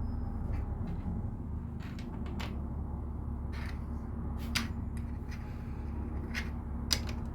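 Plastic LEGO pieces being handled and pressed together: irregular small clicks, two sharper ones about four and a half and seven seconds in. A steady low hum runs underneath.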